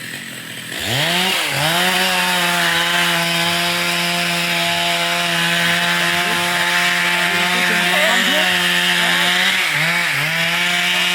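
Two-stroke chainsaw revving up sharply about a second in, then held at full throttle in a steady high-pitched drone, cutting through wood. The revs dip briefly twice near the end.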